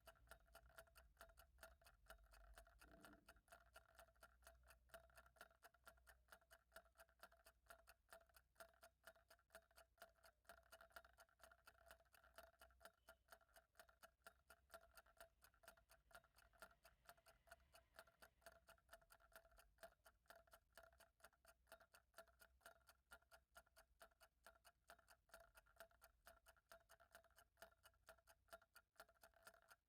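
Faint, steady ticking of a clock, evenly spaced, over a faint steady high hum.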